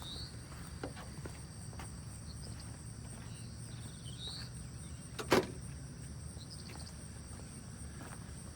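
Insects chirring steadily over a low background rumble, with a few short rising chirps and a single sharp click about five seconds in.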